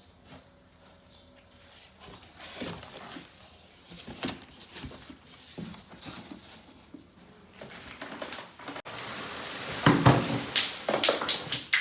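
Objects being handled: irregular knocks and clicks that grow louder, with several sharp, ringing clinks near the end.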